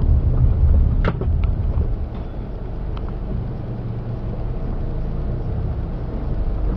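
Steady low rumble of a moving car's engine and road noise, with a few faint clicks about a second in and again around three seconds.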